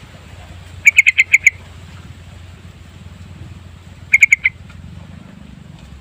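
Yellow-vented bulbul (trucukan) calling in two quick bursts of chattering notes: about six notes a second in, then four more about four seconds in, over a steady low hum.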